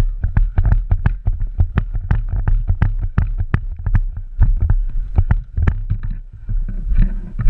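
Quick footsteps of a player moving across the ground, about three or four steps a second, picked up by a body-worn camera, with wind rumbling on the microphone.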